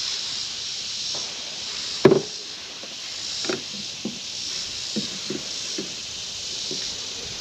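Steady rushing hiss of river water around a canoe, with hollow knocks of a paddle against the canoe's hull: one loud knock about two seconds in, then several lighter ones.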